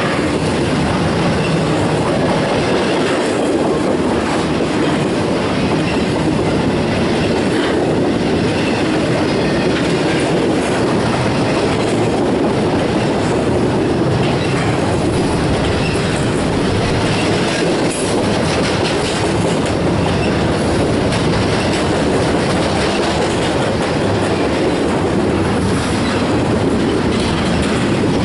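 CSX intermodal freight train's container and trailer cars rolling past at close range: a loud, steady rumble of steel wheels on the rails, with clacking as the wheels cross rail joints.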